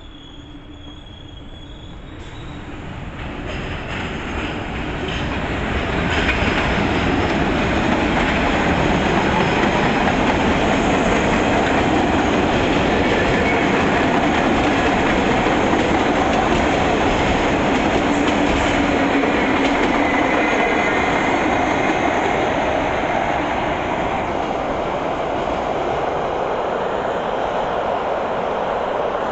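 Train running through the station on its rails. It grows louder over the first six seconds or so, then holds as a steady rumble with rail clatter and a faint high wheel squeal about two-thirds of the way in, easing slightly near the end.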